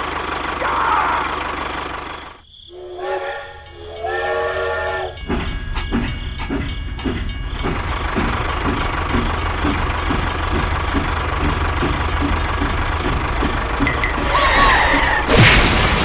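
A horn honks twice, then a tractor engine chugs steadily with an even pulse. A short, louder clatter comes near the end.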